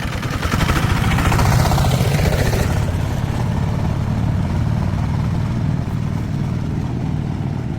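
A vehicle engine running steadily, with a rushing noise laid over it for the first two to three seconds.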